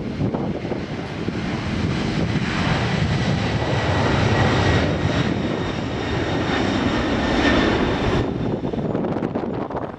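Jet airliner engines on takeoff: a loud rushing engine noise with faint steady whine tones, building toward the middle. Most of the high end drops away suddenly a couple of seconds before the end.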